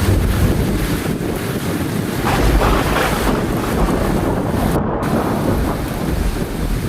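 Heavy rain with a low rumble of thunder underneath, a steady dense wash of noise that swells and brightens briefly about two and a half seconds in.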